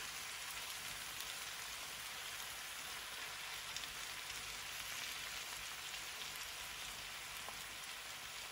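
Cabbage, smoked sausage and bacon sizzling steadily in a cast-iron skillet, a soft even hiss, with a few faint clicks from metal tongs tossing the food.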